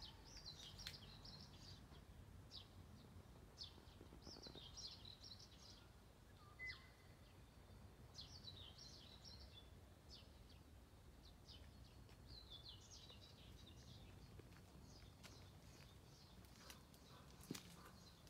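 Faint birdsong: a songbird repeating short phrases of quick high chirps every few seconds, over a steady low background rumble.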